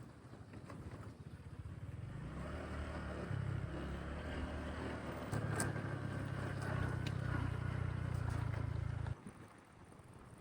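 Motorbike engine running as it is ridden, its low hum stepping up and down in pitch a few times over a rush of road noise; it cuts off suddenly near the end.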